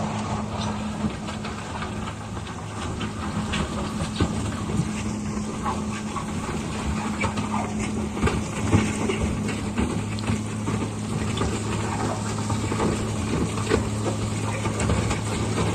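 Heavy construction machine's diesel engine running at a steady pitch, with scattered clanks and knocks from the machine at work.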